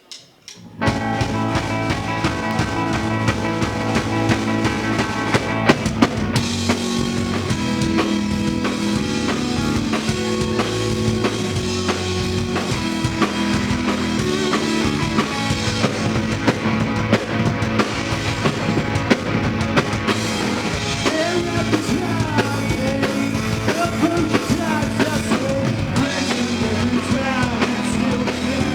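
Live rock band starting a song: full band with drum kit kicks in abruptly just under a second in and plays on steadily, instrumental with no singing yet.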